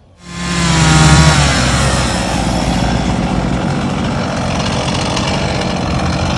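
Chainsaw running hard, its pitch falling during the first second or so and then holding steady.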